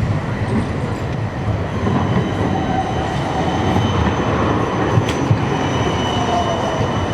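Tram running on street track, with a steady rumble of wheels on rail and a steady high-pitched wheel squeal. Near the end a whine falls steadily in pitch.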